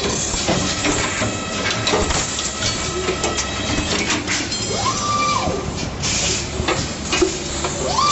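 Automatic steel-ring welding machine running: mechanical clatter and clicks over a steady hiss, with a motor whine that rises, holds and falls back twice, about five seconds in and again near the end.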